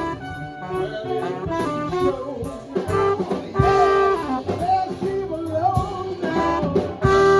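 Live swing band playing an instrumental passage: saxophone and brass over guitar and rhythm section, with held horn notes about halfway through and again near the end.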